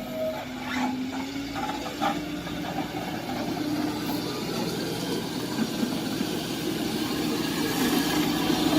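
Heavy diesel engines of an excavator and dump trucks running, a steady hum that rises slightly and gets louder toward the end. A few sharp knocks come in the first two seconds.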